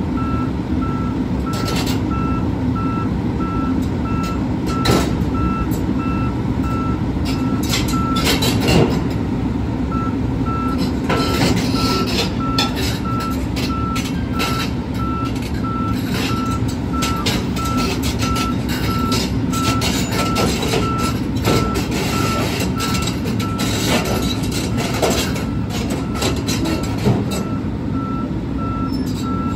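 Excavator's diesel engine running steadily while its backup alarm beeps in an even repeating rhythm as it reverses off a lowboy trailer. Scattered sharp metal clanks from the machine's tracks and the trailer deck, the loudest about nine seconds in.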